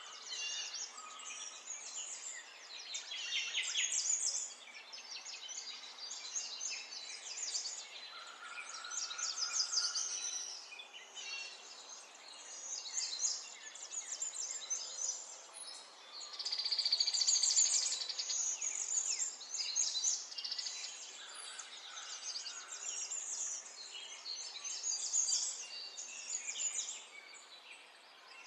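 Several birds chirping and singing at once, overlapping calls and trills over a steady faint background hiss, with one fast, dense trill about two thirds of the way through the loudest.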